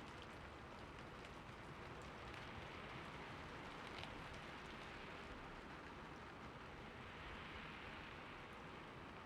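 Light rain falling: a soft, steady hiss with scattered faint drop ticks, one a little more distinct about four seconds in.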